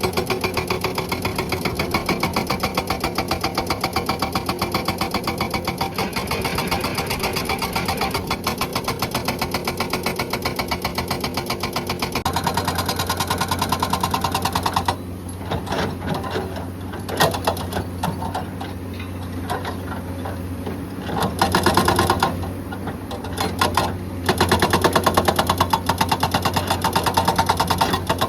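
Hydraulic breaker on a Komatsu excavator hammering rock in a rapid, even rattle of blows over the excavator's steady engine hum. About halfway through, the hammering drops to a few scattered strikes for several seconds, then picks up again near the end.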